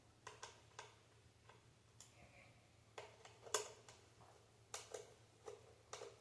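Faint, irregular light clicks and taps from handling the plastic parts of an Xbox Series S during a teardown, about a dozen in all, the sharpest about halfway through.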